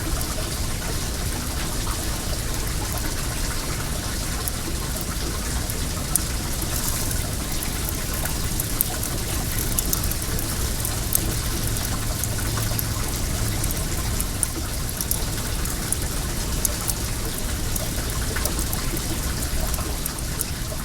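Well water running steadily, with the small irregular pops and crackles of a bonfire over it.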